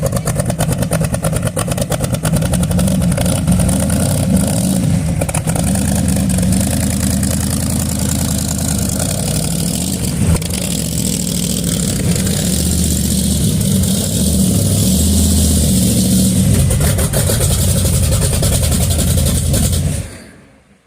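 Car engine with a loud exhaust idling close by, its pitch rising and falling a few times with light revs, then dying away near the end.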